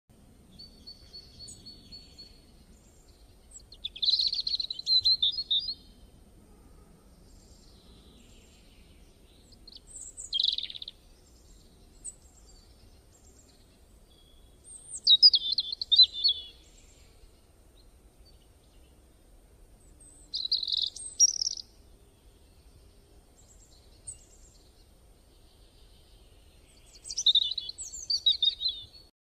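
Bird song: short high chirping phrases, each lasting a second or two, repeating every five or six seconds over a faint low background hum.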